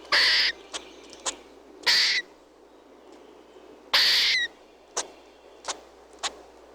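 An animal's call: three harsh, hissing screeches about two seconds apart, with short sharp clicks in between.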